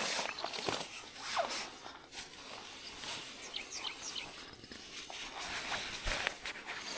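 Outdoor rustling and handling noises with scattered short clicks and knocks, and a few brief bird chirps.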